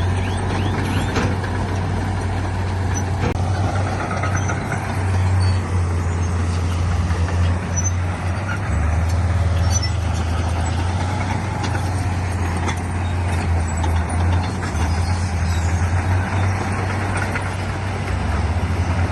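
Heavy diesel earthmoving machinery running steadily under load, a deep continuous engine drone.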